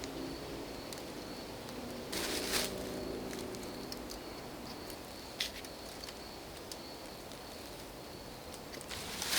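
Quiet woodland ambience with a faint high tone that comes and goes, broken by a short burst of rustling about two seconds in, a sharp snap or click about halfway and another rustle at the very end.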